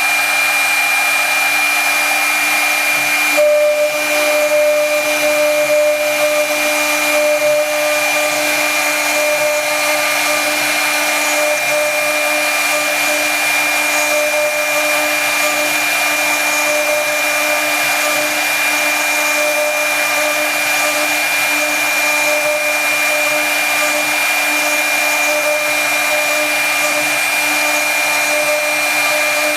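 Brushless spindle of a CNC router running at high speed with a steady high whine, cutting wood with a continuous hiss of milling noise. A second, lower tone joins in about three and a half seconds in.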